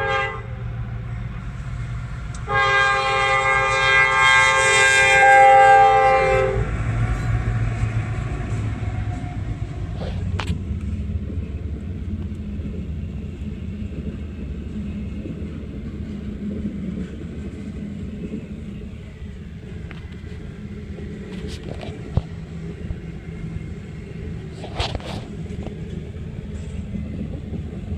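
CSX freight train's locomotive air horn sounding one long multi-note blast of about four seconds, followed by the steady low rumble of the train rolling slowly past, with a few brief sharp clanks.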